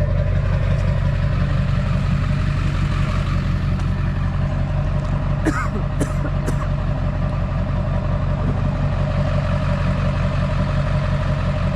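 Tow truck's engine idling steadily at the boat ramp. Three short clacks come about halfway through.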